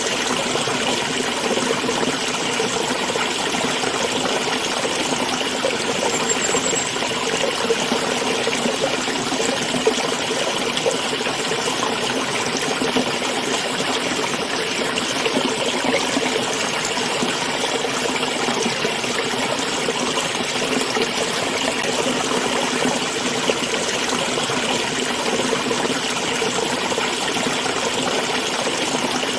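Small stream flowing: a steady, unbroken trickling and splashing of running water.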